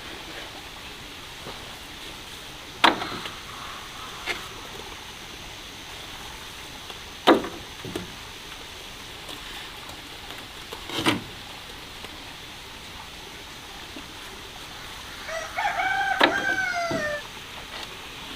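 A rooster crows once near the end, a single call of about two seconds that drops in pitch as it ends. Earlier there are a few sharp knocks several seconds apart.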